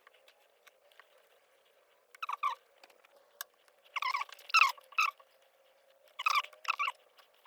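Short scratching and clattering handling noises from engine parts being worked on by hand, in three clusters about two seconds apart.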